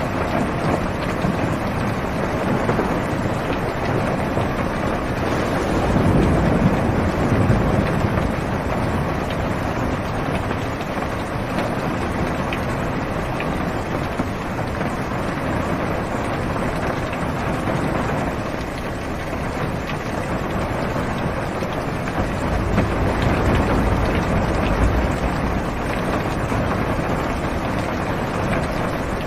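Heavy rain drumming on a car's roof and windows, heard from inside the car, in a steady dense hiss. Low thunder rumbles swell up about six seconds in and again a little past twenty seconds.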